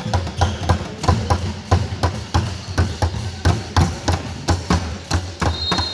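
A basketball being dribbled on the court floor: a steady run of bounces, about three a second.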